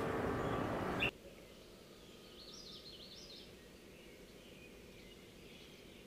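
A steady rush of outdoor noise cuts off abruptly about a second in. After that it is very quiet, and a bird chirps faintly for about a second in the middle.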